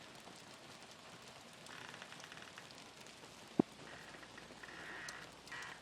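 Steady hurricane rain falling, with one sharp tap about three and a half seconds in.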